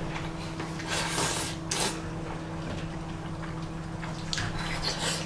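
Mouth sounds of eating spicy instant noodles: wet chewing with a few short slurps, over a steady low hum.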